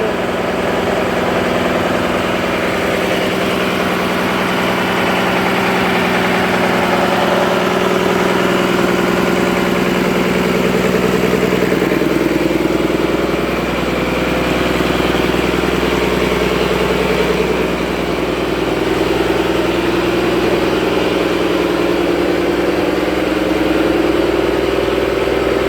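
Fishing boat's engine running steadily, an even hum whose pitch wavers slightly.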